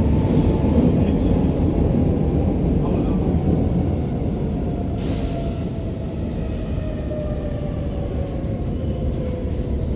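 First-generation Brussels metro train (M1–M5 series) running with a heavy rumble and a motor whine that falls steadily in pitch as the train slows. A brief hiss about five seconds in.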